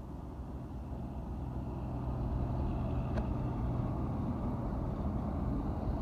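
Truck engine running steadily, growing louder over the first two seconds, with a short click about three seconds in.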